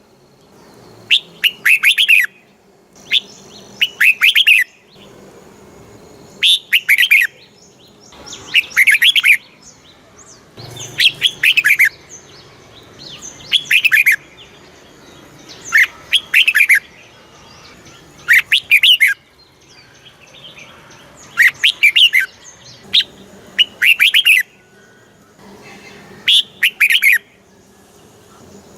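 Red-whiskered bulbul singing: short phrases of quick, bright falling notes, each about a second long, repeated about every two to two and a half seconds.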